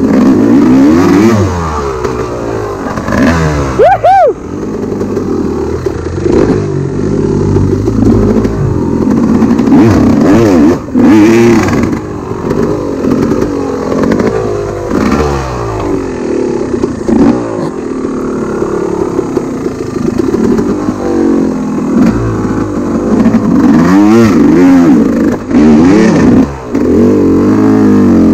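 Enduro dirt bike engine revving up and down over and over as it is ridden on a rough trail, the throttle opened and closed every second or two, with a few short knocks along the way.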